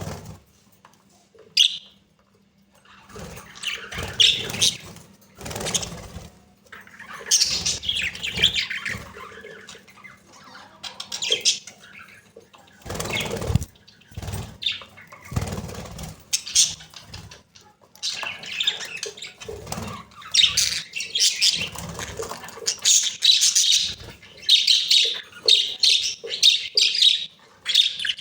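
Budgerigars chattering and warbling in irregular bursts of high chirps and squawks, with short pauses between bursts and a denser stretch in the second half.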